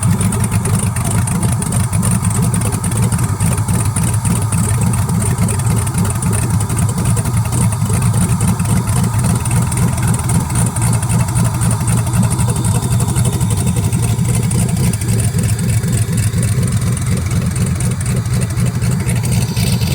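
LQ4 6.0-litre V8 swapped into a Chevy S10, running on its first start with no exhaust system fitted, so it is very loud. It runs steadily but maybe not on all eight cylinders, by the owner's own doubt.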